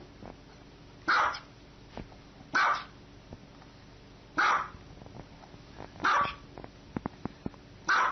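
Dog barking: single short barks, five of them, spaced about one and a half to two seconds apart, with a few faint clicks between the last two.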